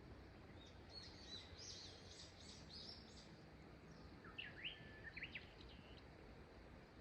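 Small wild birds singing faintly: a high twittering phrase about a second in, then a few sharper, louder chirps past the middle, over a quiet, steady low background hiss.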